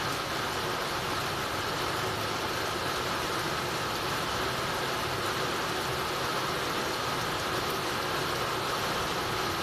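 Heavy rain falling steadily on a tiled roof and pouring off its eaves, an even, unbroken hiss.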